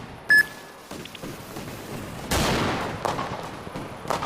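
A firecracker going off. A brief sharp sound with a short ringing tone comes just after the start, then about two seconds in a loud burst fades into a run of small crackling pops.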